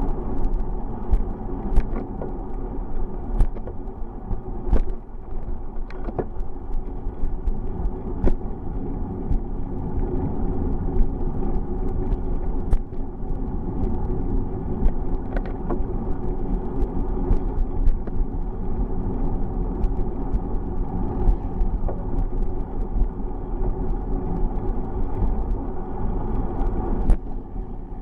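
Steady road and wind rumble of a bicycle being ridden, with frequent small sharp clicks and rattles scattered through it.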